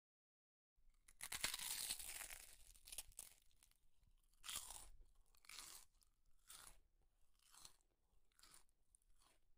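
Close-miked eating sounds of a person chewing a mouthful of rice and curry. A longer run of chewing comes about a second in, then separate chews about once a second.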